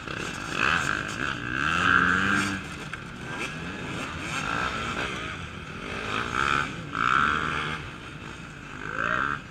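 Off-road enduro motorcycle engines revving in repeated bursts, each rising in pitch and dropping back, as riders work through a technical section.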